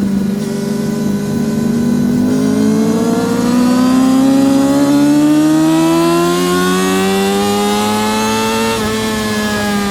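Yamaha R6 RJ03's 600cc inline-four racing engine under hard acceleration. It holds low revs for a couple of seconds, then pulls its pitch up steadily for about six seconds before a quick gear change drops the revs near the end.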